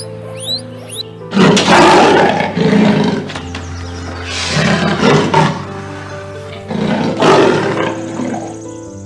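A large animal roaring three times, each call a loud harsh rasp lasting one to two seconds, over steady background music.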